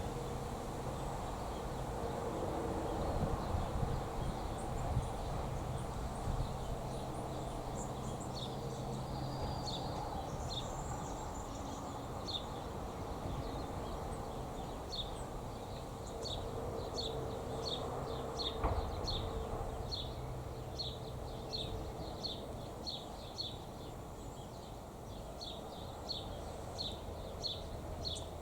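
A bird calling in short, high, evenly repeated chirps, about two a second, from about twelve seconds in, after a few brief higher whistles. Steady low outdoor background noise lies underneath.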